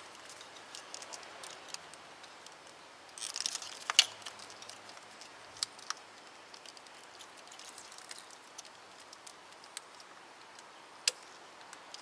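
Small plastic clicks and handling noise of fuel injector wiring connectors being squeezed and pried loose with a screwdriver: a brief flurry of clicks about three to four seconds in ending in a sharp snap, scattered light ticks, and another sharp click near the end.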